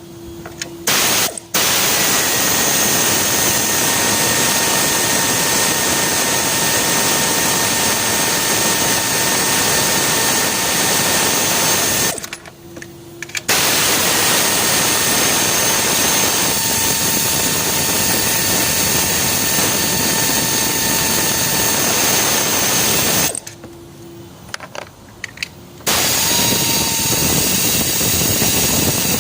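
Loud, steady rushing hiss from a workshop tool, running in three long stretches with two short pauses.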